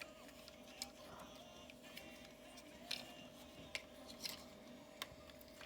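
Faint plastic clicks of a transforming robot toy's parts being turned and snapped into place, about five scattered over a few seconds, over a faint steady hum.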